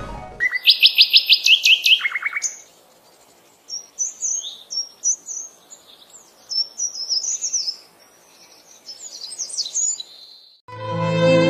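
Songbirds singing: a fast run of loud, falling whistled notes, then a longer stretch of fainter, varied high chirps and twitters. String music with a violin comes in near the end.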